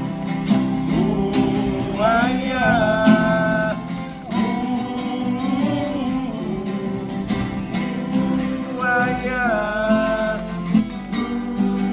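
Acoustic guitar strumming chords, the instrumental passage after a sung verse, with a wordless melody line that comes in twice.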